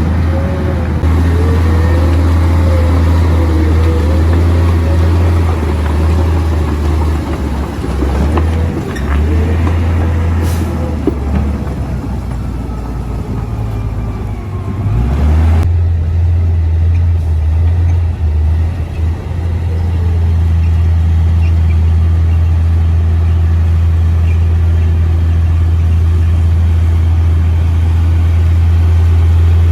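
Komatsu D58P bulldozer's diesel engine running steadily under load, with a wavering whine over the first several seconds and a rising whine that cuts off suddenly about fifteen seconds in.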